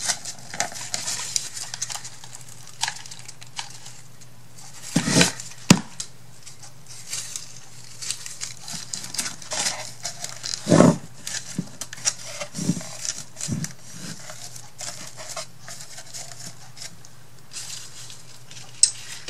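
Hands handling small craft supplies: scattered light taps, clicks and rustles, with a few louder knocks about five and eleven seconds in, over a steady low hum.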